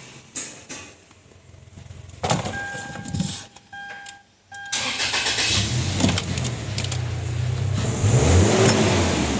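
Toyota Land Cruiser Prado engine started after its water-flooding repair: a few short beeps, then the engine cranks and catches about five seconds in and runs steadily, rising and falling once near the end as it is revved.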